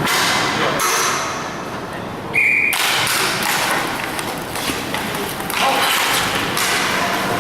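Inline hockey play on a rink: knocks and thuds of sticks and puck against a steady rolling and scraping noise from skate wheels on the floor. About two and a half seconds in there is a brief high tone.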